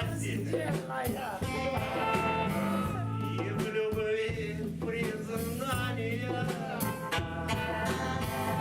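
Live band playing an instrumental passage: bass notes under a wavering lead melody, with drums.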